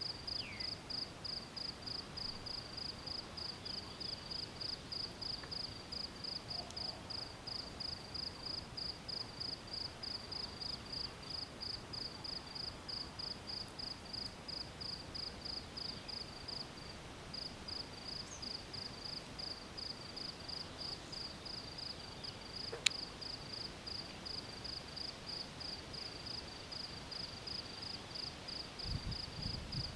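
A cricket chirping steadily, about two to three chirps a second, over a faint outdoor hush. A single sharp click comes about three-quarters of the way through.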